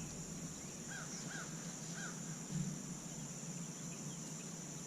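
Outdoor lakeside ambience: a steady high-pitched insect drone, with a bird giving three short arched call notes between about one and two seconds in.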